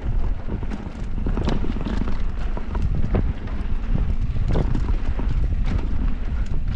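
Mountain bike riding fast down a dirt trail: a steady wind rumble on the microphone, with irregular knocks and rattles as the bike goes over bumps.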